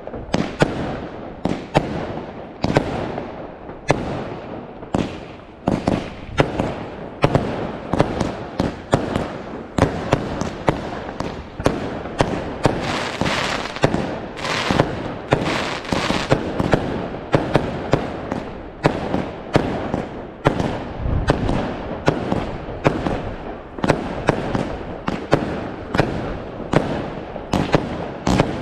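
Fireworks going off in quick succession: sharp bangs, roughly two a second, over a steady crackle.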